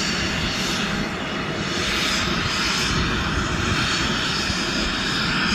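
Helicopter engine and rotor running loud and steady as it readies to take off.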